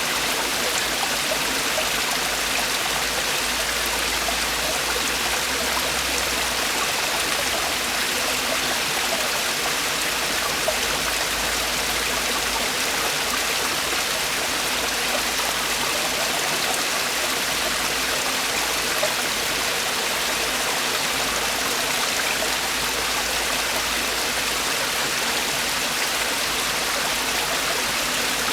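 Mountain stream water tumbling and falling over rocks in a steady, unbroken rush.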